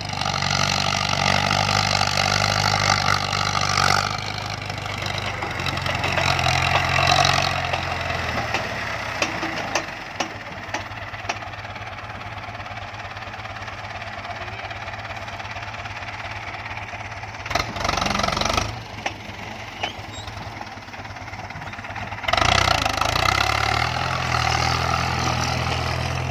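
Hino F18 ten-wheeler truck's diesel engine running, loud in surges early on and again near the end, idling more quietly in between with scattered knocks and clicks.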